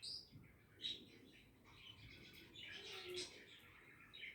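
Budgerigars chirping and warbling, faint: sharp chirps at the start and about a second in, then a longer run of chatter.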